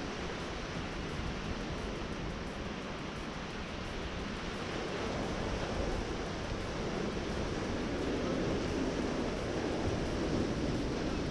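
Sea waves washing in on the shore, a steady surf rush that swells louder in the second half, with wind rumbling on the microphone.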